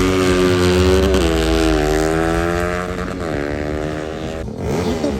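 A vehicle engine revving hard at high rpm. Its pitch drops sharply about a second in and climbs steadily, jumps again about three seconds in, then breaks off near the end.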